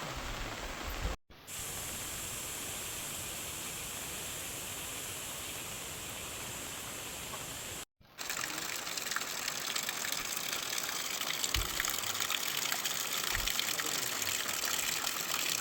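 Steady rushing of water, broken by two sudden cuts, about a second in and about eight seconds in. The last stretch is louder, with many small ticks through it.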